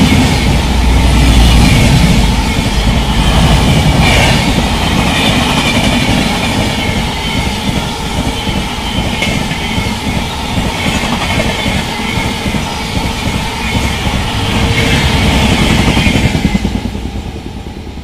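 Coaches of an express train passing at speed, with wheels rumbling and clattering in a fast rhythm over the rail joints and a hiss from wheels and rails. The sound dies away about a second before the end as the last coach goes by.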